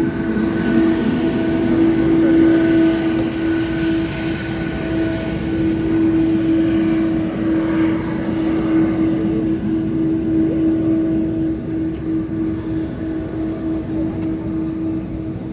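Aircraft engine running steadily, a constant droning hum over a rushing rumble.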